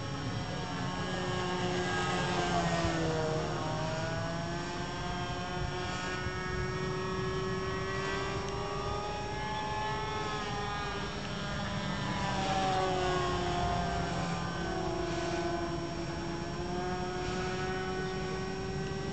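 Small engine of a radio-control model airplane running in flight, a steady buzzing note whose pitch falls and rises several times as the plane flies past.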